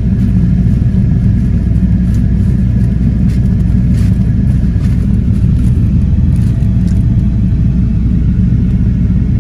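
Steady low rumble of a car's engine idling, heard from inside the cabin, with a few faint clicks over it.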